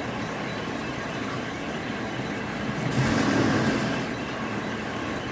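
Steady machinery noise, swelling louder for about a second around three seconds in.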